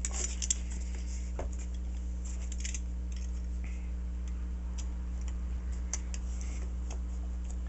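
Snap-off utility knife blade cutting through foam: faint, scattered scratchy strokes and small clicks over a steady low hum.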